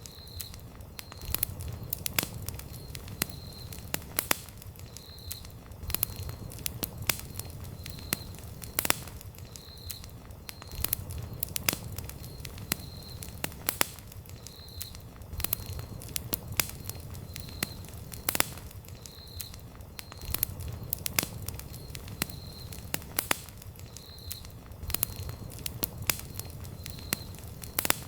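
Wood campfire burning and crackling: frequent sharp pops and snaps over a steady low rumble of flames. A short, high chirp repeats about once a second.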